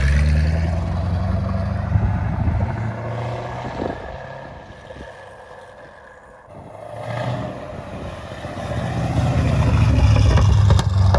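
2011 Camaro SS's 6.2-litre V8 revved through a straight-piped exhaust with the catalytic converters deleted, an H-pipe and Borla ATAK mufflers. It is loud from the start and falls away over about six seconds, then builds again to a second loud rev. Sharp exhaust pops come near the end.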